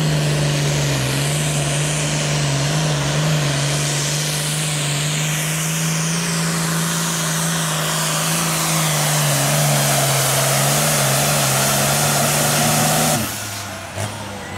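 Super Farm class pulling tractor's turbocharged diesel engine running flat out at a steady high pitch under the load of the sled. About thirteen seconds in the engine sound cuts off suddenly, leaving a much quieter sound.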